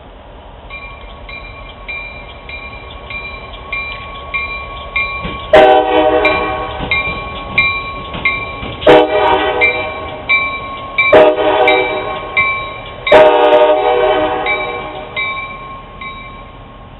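Grade-crossing warning bell dinging about twice a second. A diesel locomotive's air horn sounds four blasts over it, the pattern blown when a train approaches a crossing.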